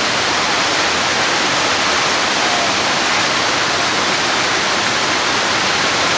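Heavy rain pouring down, a steady hiss without a break.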